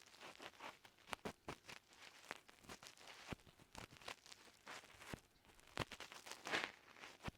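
Ear pick scraping and scratching inside an ear microphone: a faint, irregular string of small clicks and crackly scrapes, like dry earwax being worked loose, with one longer, louder scrape about six and a half seconds in.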